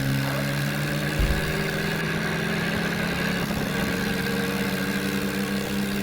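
Diesel engine of a heavy farm or construction machine running steadily at idle.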